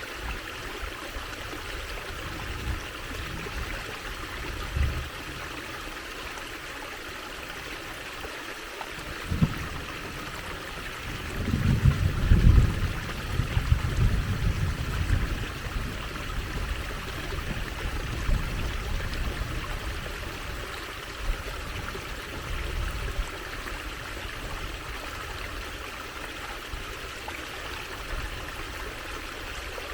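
Water trickling steadily, like a small stream. A low, uneven rumble comes and goes in the middle, loudest about twelve seconds in.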